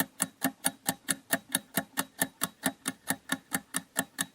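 Quiz countdown-timer sound effect: even, quick clock-like ticks, about four to five a second, counting down the answer time.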